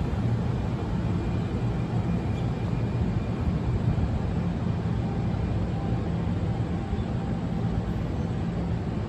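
Steady low rumble and hum of a train.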